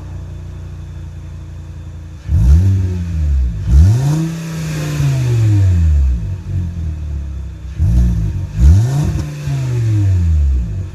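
Car engine idling through a newly fitted Flowmaster Super 44 muffler, then revved twice in quick succession about two seconds in and twice more near the end, each rev rising and falling back to idle. The exhaust note is deep.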